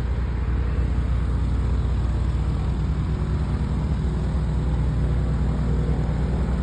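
An aircraft engine running steadily nearby, a low, even drone that holds the same level throughout.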